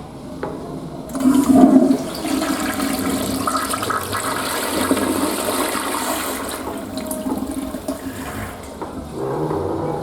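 Toilet flushing: a click, then a loud rush of water starting about a second in that runs steadily and eases off near the end.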